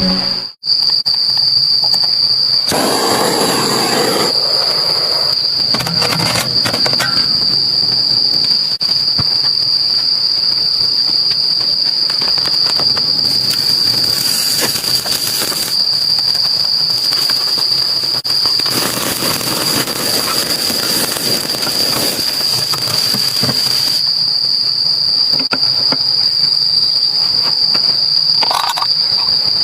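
Insects, crickets or the like, droning in one steady high-pitched tone without a break. Louder rushing noise swells over it several times, about 3 s in, around 14 s and again from about 19 to 24 s.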